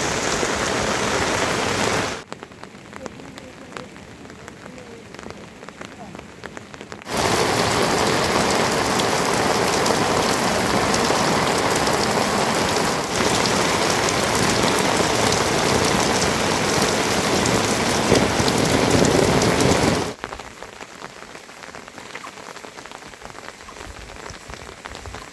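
Steady rain falling, a dense even hiss of drops. It drops suddenly to a much quieter patter about two seconds in, comes back just as loud a few seconds later, and falls quiet again near the end.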